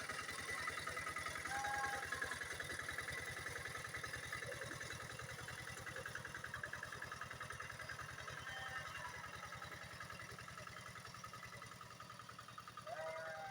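Quick G600 two-wheel hand tractor's single-cylinder diesel engine running at work with a fast, even chugging beat, gradually getting quieter.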